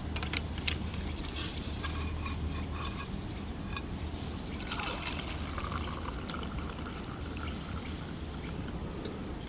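Spruce-needle tea being poured, a steady trickle of liquid with a few light clinks early on.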